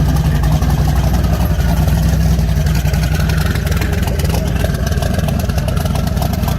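Twin-turbocharged 6.0-litre LQ4 V8 in a 1983 Chevrolet Impala running steadily at low speed.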